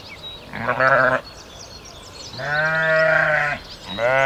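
Sheep bleating, three calls: a short quavering one about half a second in, a longer one about two and a half seconds in, and a third starting near the end. Small birds chirp faintly behind.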